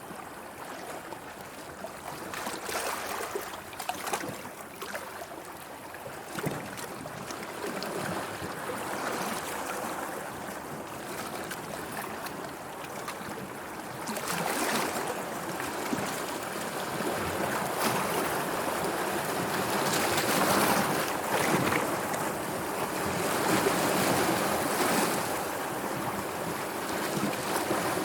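Sea waves washing and splashing, swelling louder about halfway through.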